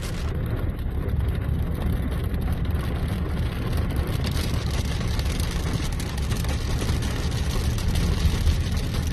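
Steady road and engine noise inside a moving car, with rain and hail hitting the car body and windows as many small ticks.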